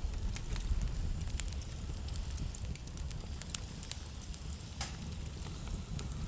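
Wood fire burning in a fireplace: a low rumble of flame with irregular small crackles and a sharper pop from the burning logs nearly five seconds in.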